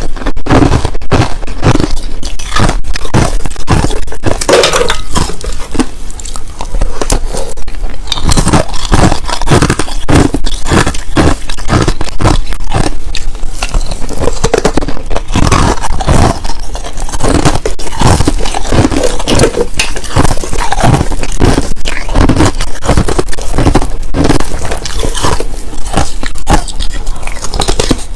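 Crushed ice, clear and powdery, being bitten and chewed close to the microphone: a loud, continuous run of crunches, several a second.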